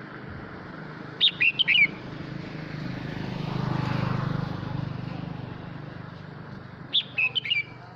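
Male red-whiskered bulbul singing two short, quick phrases of several sharp notes, about six seconds apart. Its song calls the flock. Between the phrases a vehicle passes, a low hum that swells and fades.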